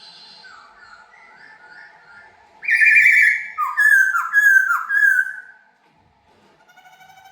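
A laughingthrush singing: soft quick whistled notes, then about two and a half seconds in a loud phrase of a long whistle followed by three or four downward-swooping notes, then soft notes again near the end. A faint steady tone runs underneath.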